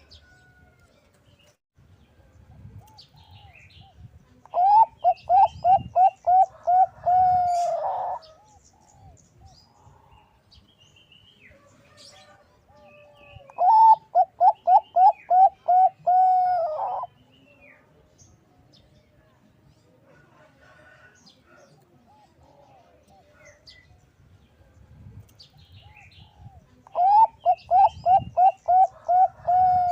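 Zebra dove (Bangkok-type perkutut) singing: three bouts of quick coos, each about eight or nine short notes that flick up in pitch, ending on a longer drawn-out note. Faint chirps of other small birds between the bouts.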